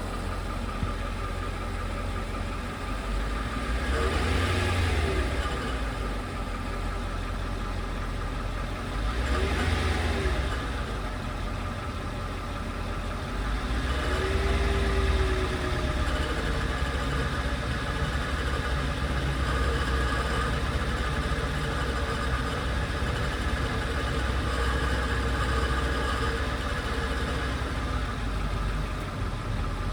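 Mercedes-Benz W210 E-Class engine idling and revved briefly three times, about 4, 10 and 14 seconds in, running on a little louder after the last. Mixed in is a light rattle around 1000 rpm that the owner has heard since buying the car and cannot place.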